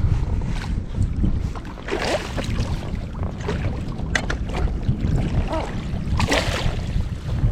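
Wind buffeting the microphone in a low, gusting rumble on a kayak, with a few short sharp noises about two, four and six seconds in.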